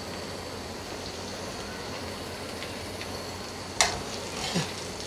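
Batter-coated white chickpeas frying in hot oil in a kadhai with a steady sizzle. A little under four seconds in, a metal spatula knocks sharply against the pan and scrapes as it stirs.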